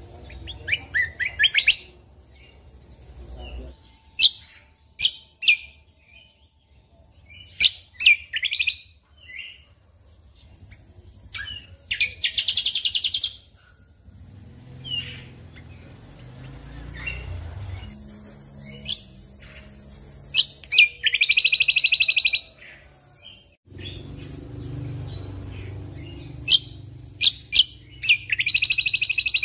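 Cucak kombo (kecial kombok) singing: short sharp chirps mixed with rapid buzzy trills about a second long, repeated every few seconds.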